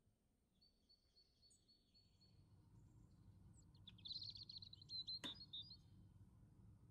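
Faint high bird chirps and a quick trill, with a single sharp clink about five seconds in, fitting a metal spoon knocking the ceramic serving dish.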